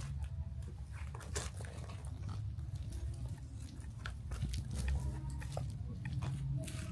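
City street ambience: a steady low rumble with scattered small clicks and crunches close by.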